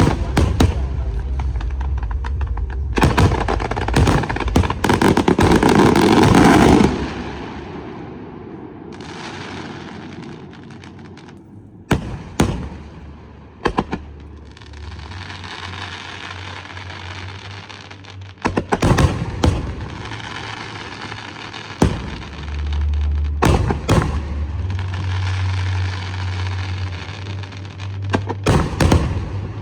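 Aerial fireworks display: sharp bangs of shells bursting, with a dense rapid volley of reports a few seconds in and stretches of crackling and hissing between the bangs. Single sharp reports come again around the middle and near the end.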